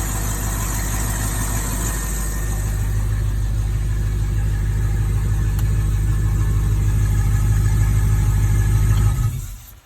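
Inboard engine of a 2006 MasterCraft X15 ski boat idling steadily, then switched off about nine seconds in, the sound dying away within about half a second.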